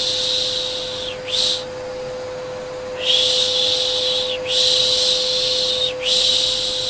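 A person making a repeated 'shh' shushing sound to soothe a baby: hissy shushes about a second long with short gaps, and a longer pause near the middle. Under it runs the steady hum of a running vacuum cleaner.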